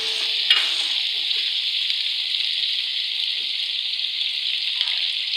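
Beef karahi gravy sizzling steadily in a black karahi over a gas flame, the masala frying down as the dish is almost done. A single sharp click about half a second in.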